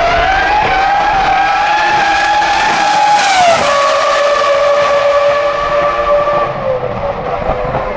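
Jaguar R5 Formula 1 car's 3.0-litre Cosworth CR-6 V10 running at high revs, its high-pitched note climbing slowly. About three and a half seconds in the pitch falls sharply and then holds steady at a lower pitch.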